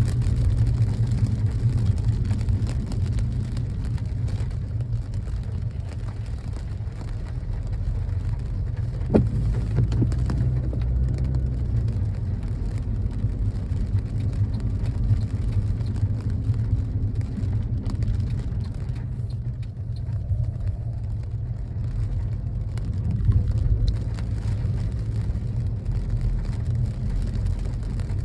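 A car driving through rain, heard from inside: a steady low rumble of road and wind noise with rain hitting the car, and one sharp click about nine seconds in.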